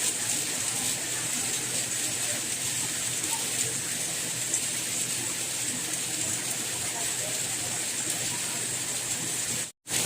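Soft rain falling steadily in an even hiss. The sound cuts out completely for a split second near the end.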